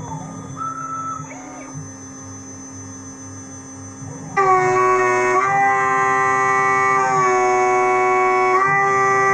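An 8 mm three-flute end mill on a homemade CNC machine, spinning at 8000 rpm and milling V95 aluminium alloy, gives a loud, steady singing tone at the rate its teeth strike the metal. The tone drops away for the first four seconds or so, then the loud cut comes back in about four and a half seconds in.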